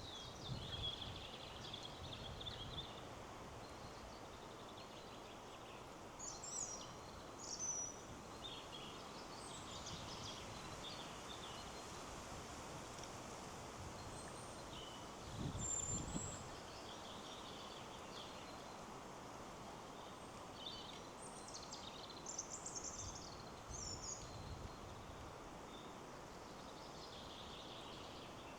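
Forest ambience: a steady rush of wind in the trees, with several small birds chirping and calling on and off over it. A brief low rumble comes about halfway through.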